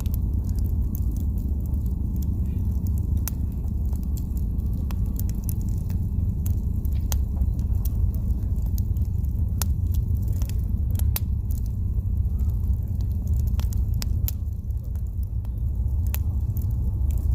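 Wood campfire crackling, with frequent sharp pops at irregular intervals over a steady low rumble.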